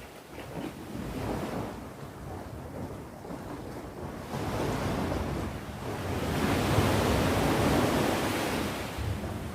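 Sea waves breaking and washing on the shore, a wave swelling up about halfway through, peaking and then easing near the end, with some wind on the microphone.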